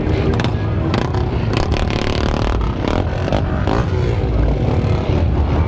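Motorcycle engines running and revving, with scattered clattering knocks.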